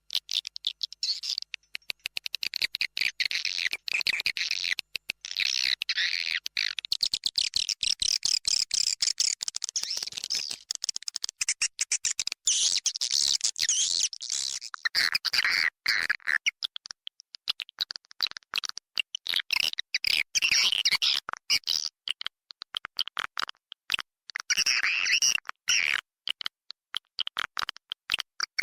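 Swiftlet calls: a dense, high-pitched twittering of rapid chirps and clicks in quick succession, the kind of swiftlet calling sound played to lure swiftlets to a nesting house.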